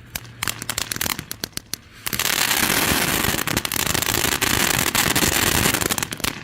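Crackling ground fountain firework: scattered sharp pops for about two seconds, then a dense, loud crackling hiss that cuts off suddenly near the end.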